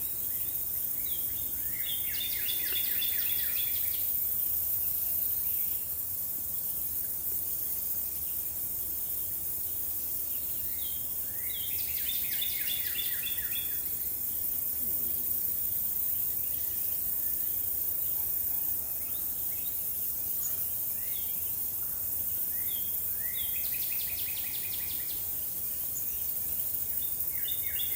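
A songbird sings a short, rapid phrase of repeated notes three times, about ten seconds apart, over a steady high insect hiss.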